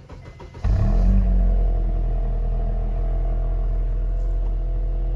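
Car engine running steadily at idle, an even low hum that starts abruptly under a second in.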